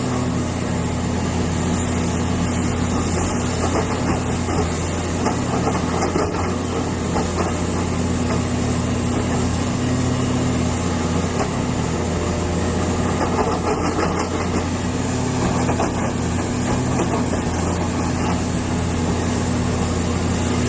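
Diesel engine of a Hitachi EX450 excavator running steadily at an even engine speed.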